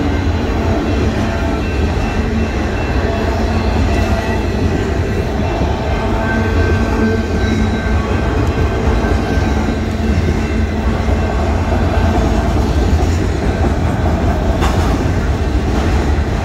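Freight train of enclosed autorack cars rolling past at close range, a steady rumble of wheels on the rails.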